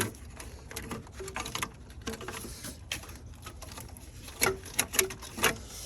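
Scattered clicks and knocks of hands working a plastic coolant pipe and its fittings loose in an engine bay, with a quicker run of knocks near the end.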